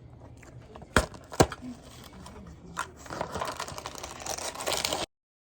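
Plastic food packaging being handled: two sharp clicks about a second in, then crinkling and tearing from about three seconds in that cuts off suddenly near the end.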